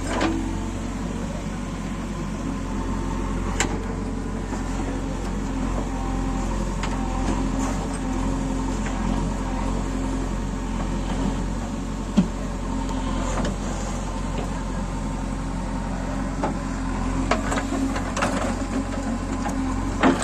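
A JCB 3DX backhoe loader's diesel engine running steadily, with a few scattered clicks and knocks, more of them near the end.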